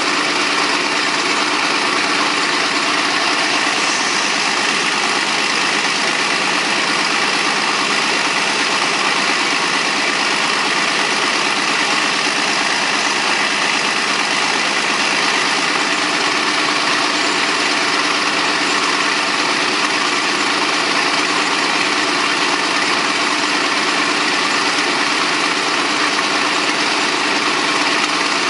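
Caterpillar D13000 six-cylinder diesel engine running steadily at an even speed.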